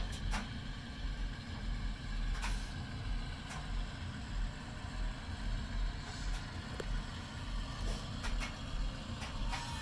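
Sound-equipped model diesel locomotives running: a low, throbbing diesel engine sound from the models' onboard speakers, with sharp clicks at uneven intervals, about one a second, as the wheels pass over track joints.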